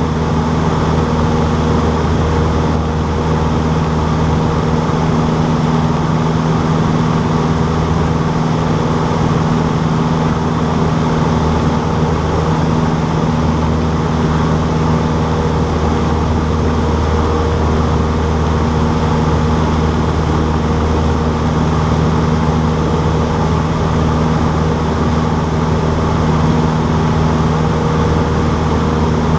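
Cessna 152's four-cylinder Lycoming O-235 engine and propeller, running at a steady drone with no change in pitch.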